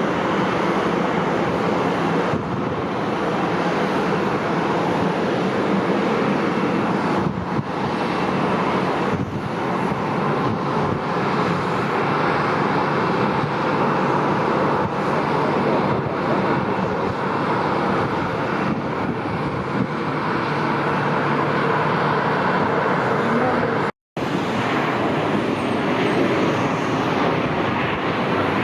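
Jet airliner engines running with a steady, loud rush of noise, broken by a brief cut to silence near the end.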